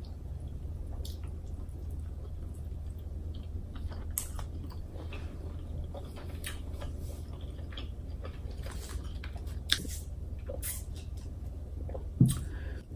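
Close-miked chewing of seafood, with small wet smacks and clicks from the mouth, over a steady low hum. A single louder short thump comes near the end.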